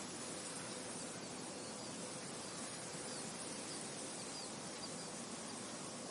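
Wind blowing steadily, an even rushing hiss with no gusts, with a few faint short high chirps now and then.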